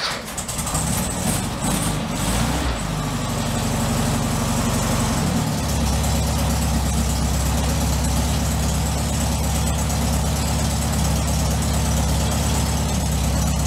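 Air-cooled VW Beetle flat-four engine running on the move. Its pitch shifts over the first few seconds, then it settles into a steady run from about five seconds in.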